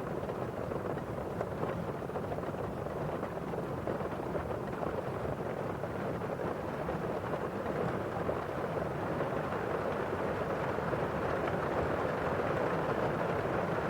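Steady rain on a window pane with the hiss of rain falling outside, an even wash of noise that grows a little louder over the second half.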